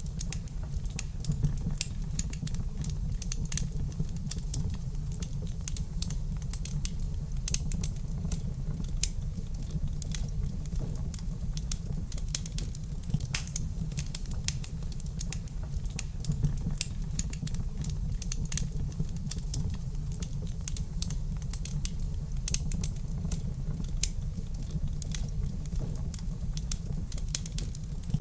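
Wood fire crackling in a fireplace: many small, sharp, irregular pops and snaps over a steady low rumble of burning.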